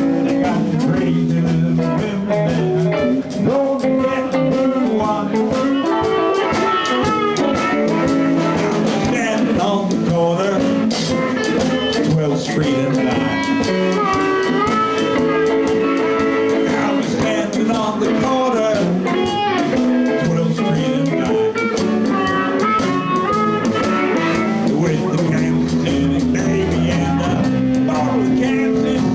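Live blues band playing a shuffle in A, with electric guitar, bass and drums together and a lead line that bends in pitch.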